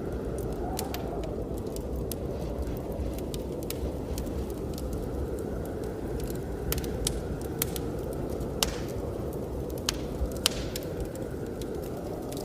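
Wood fire crackling, with scattered sharp pops that come more often in the second half, over a steady low rush of blizzard wind.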